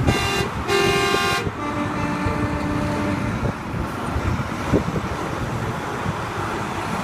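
Truck horns honking: one loud blast from about half a second in, lasting about a second, then a lower, fainter horn held for about two seconds, over steady traffic noise.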